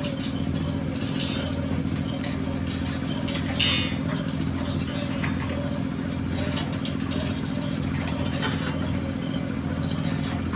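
Heavy diesel engine of construction machinery, such as a piling rig or excavator, running steadily. A brief high squeal comes about three and a half seconds in.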